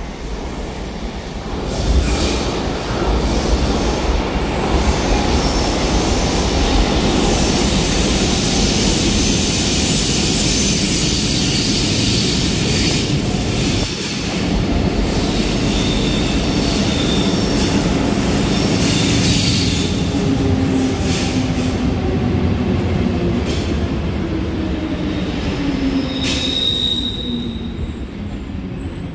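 Double-deck S-Bahn train pulling into a station out of a tunnel: a loud steady rumble of wheels and carriages that starts about two seconds in. In the last third a pitched whine falls as the train brakes and slows, with a short high squeal near the end.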